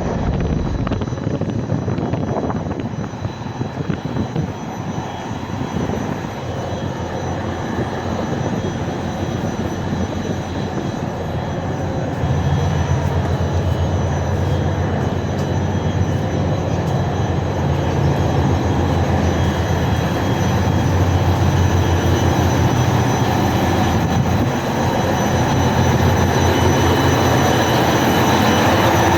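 A ferry's engines running in the engine room: a loud, steady mechanical din with a fast pulsing beat underneath. It gets a little louder about twelve seconds in.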